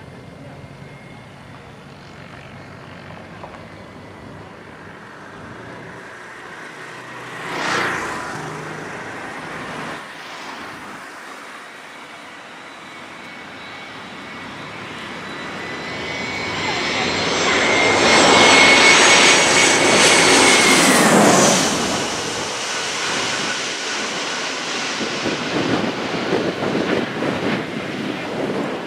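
Airbus A321 jet airliner on a low final approach, its engines rising to a loud, steady high whine as it passes overhead. The whine cuts off sharply once the jet has gone past, about two-thirds of the way in, leaving a rougher, fluctuating rush.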